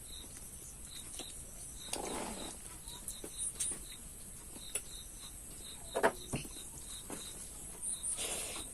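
Eating by hand: rice, fish fry and curry being handled and chewed, with a few sharp clicks and two short soft rustling smacks. Behind it, insects chirp steadily a couple of times a second.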